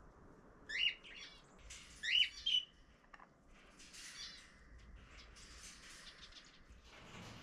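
Aviary birds calling: loud, short, sharply rising chirps about a second and two seconds in, then softer chattering calls around the middle.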